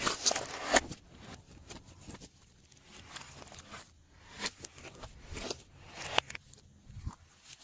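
Glossy slime being squished and stretched by hand, giving irregular small clicks, pops and crackles, a little louder in the first second.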